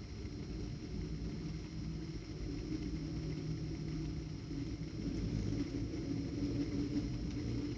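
Low rumble with a faint hum that swells and fades, from hummingbirds' wings as they hover close.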